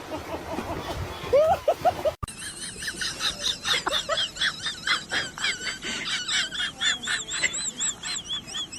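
Animal calls: after a cut about two seconds in, a dense run of rapid, high, wavering chirps repeated many times a second.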